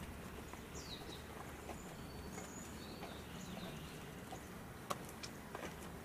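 Low steady outdoor background with a few short, high bird chirps, one sliding down in pitch, and a single sharp click about five seconds in, followed by a couple of fainter clicks.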